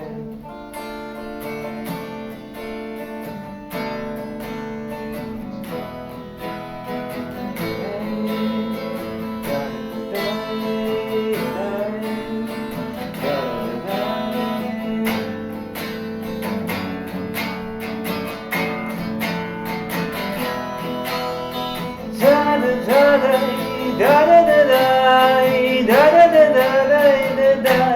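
Acoustic guitar strummed in steady rhythm as an instrumental break between verses. About three quarters of the way through it gets louder, and a wavering melody line comes in over the strumming.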